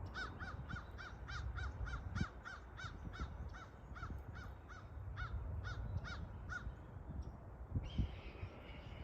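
Large wild birds calling: a quick run of about sixteen short, pitched calls, two or three a second, that stops about two-thirds of the way through. A brief, noisier, higher call follows near the end.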